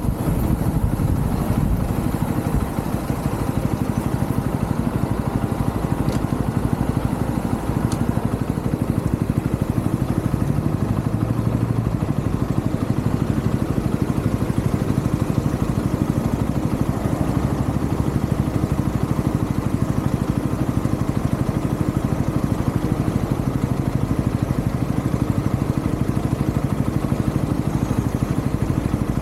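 UM Renegade Commando 125 motorcycle's single-cylinder engine running steadily, heard close up with an even low pulse.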